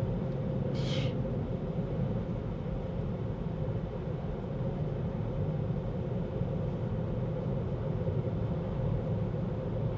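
Tesla driving, heard from inside the cabin: steady low road and tyre rumble, with one short high hiss about a second in.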